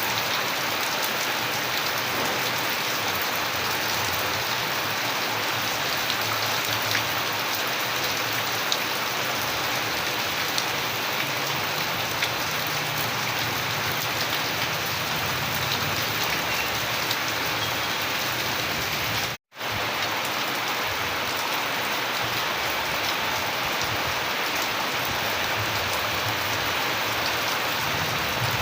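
Steady, dense rainfall with scattered drops ticking through the hiss. The sound cuts out completely for an instant about two-thirds of the way through, then resumes unchanged.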